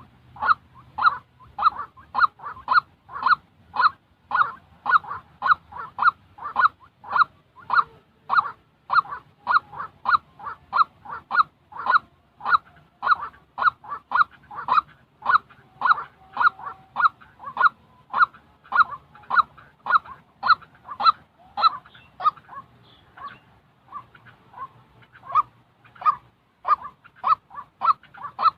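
White-breasted waterhen calling: a long, even series of short identical notes, about two a second, which falters briefly and grows fainter a little before the end.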